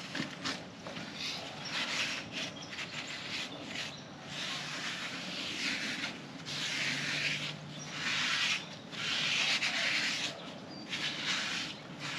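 Stiff hand brush scrubbing a dull surface on a motorcycle in repeated back-and-forth strokes of uneven length, to lift off built-up grime.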